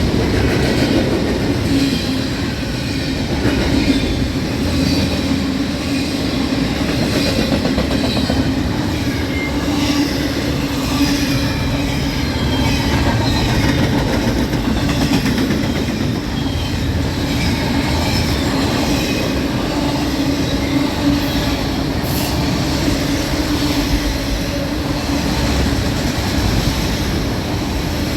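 Freight train cars rolling past at steady speed: a continuous rumble of steel wheels on rail, with faint high wheel squeals over it.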